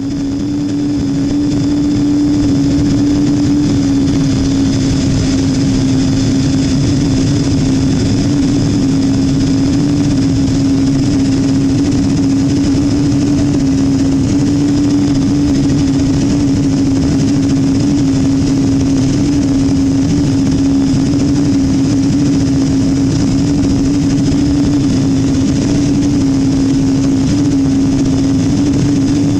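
Cabin noise of a Boeing 777-200 taxiing on its engines: a steady drone with a strong low hum and a faint high whine above it.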